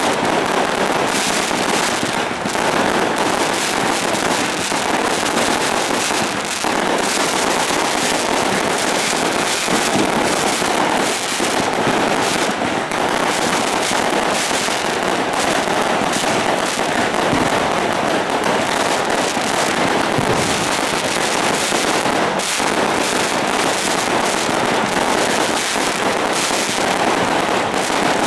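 Fireworks going off in a dense, unbroken crackle of rapid bangs that does not let up.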